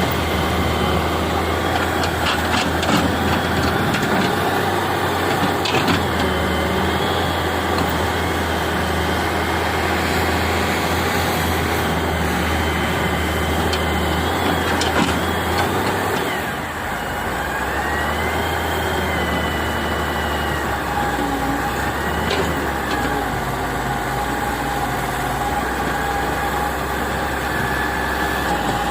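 Wheel excavator's diesel engine running steadily, with a few sharp knocks in the first several seconds. About halfway through the sound drops briefly and the engine note shifts, with a thin whine rising and falling over it, as from the hydraulics under changing load.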